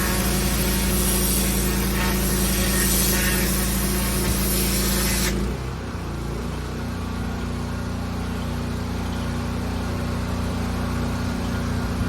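Pressure washer in use on block paving: a high-pressure water jet hissing over the steady hum of the machine's engine. About halfway through, the spray stops and the engine keeps running on its own.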